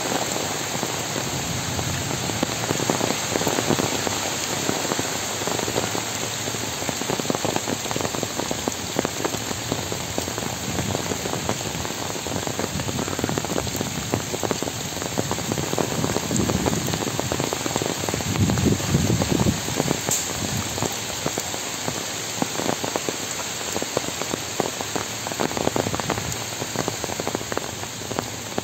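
Heavy rain falling through trees onto wet ground: a steady hiss with a dense patter of individual drops.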